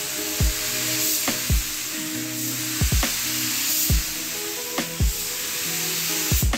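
Paint spray gun hissing steadily as it sprays, under background music with a regular low beat.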